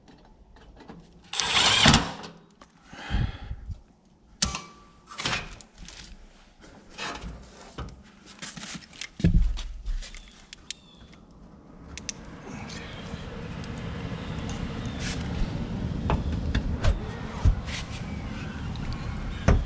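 Knocks, clicks and rattles of sheet-metal access panels and tools being handled as an air handler is put back together, with a louder scraping burst about two seconds in. From about twelve seconds in a steady low rushing noise starts and slowly builds under the clicks.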